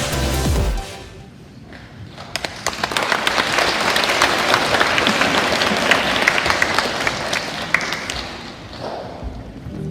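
Audience applauding, swelling up a couple of seconds in and dying away near the end, just after a short electronic intro jingle cuts off.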